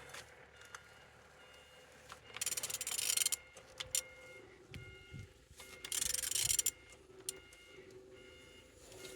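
Used engine being turned over by hand, heard as two rasping strokes of under a second each, about three seconds apart, with a couple of low knocks between them. Faint steady beeping tones run underneath.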